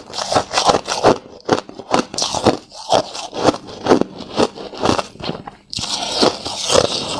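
Crushed ice being bitten and chewed close to the microphone: a quick run of hard, sharp crunches, about two a second. Near the end it turns into a denser, steadier crackle.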